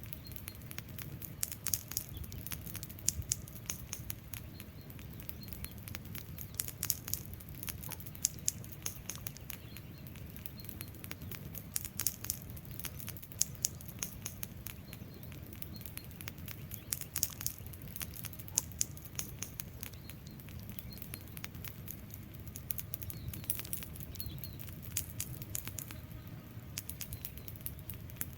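Wood fire burning with a steady low rush of flames and frequent irregular crackles and pops from the burning logs.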